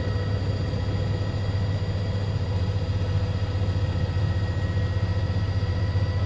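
Cabin noise of a news helicopter in flight: a steady low rotor and engine drone with a few steady higher whining tones above it.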